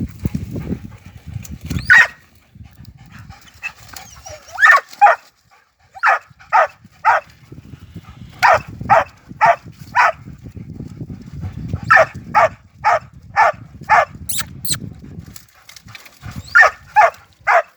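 Dogs barking at a puma in runs of short, sharp barks, about two a second, with short pauses between the runs.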